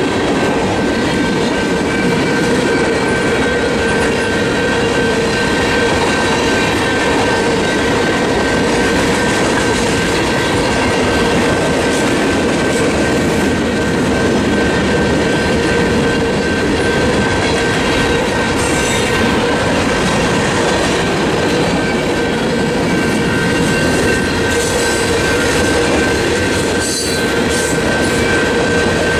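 Freight train cars rolling steadily past through a level crossing, wheels clacking over the rail joints, while the crossing's General Signals Type 2 electronic bell keeps ringing over the train noise.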